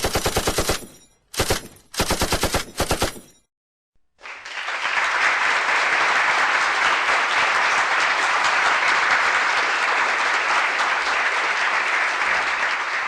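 Machine-gun sound effect: rapid automatic gunfire in three short bursts, with a brief pause between them. After a second of silence comes about ten seconds of steady, dense rushing noise that fades at the end.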